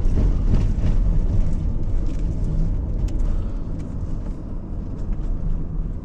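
Car driving over a broken, potholed road, heard from inside the car: a steady low rumble of tyres and engine with scattered light knocks and rattles.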